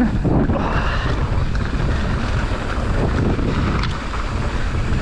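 Mountain bike descending a trail at speed: steady rushing wind noise on the camera microphone, with the rumble of the bike over the ground.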